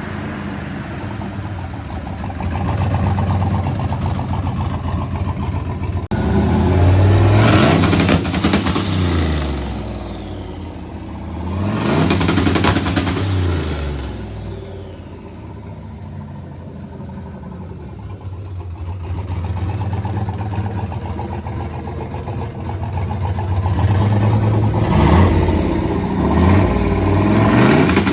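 Turbocharged OBS pickup engine on a chassis dyno, running with its revs climbing and dropping back several times. The three biggest rises come about a quarter, just under half, and near the end of the stretch.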